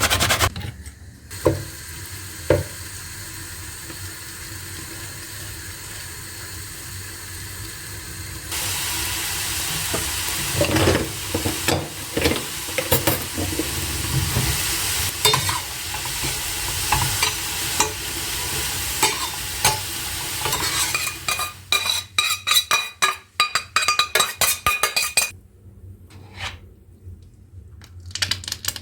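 Food sizzling in a frying pan while a utensil stirs it, the hiss getting louder about a third of the way in, with the spoon clicking and scraping against the pan. Near the end come quick scrapes and taps, then a quieter stretch with a few light ticks.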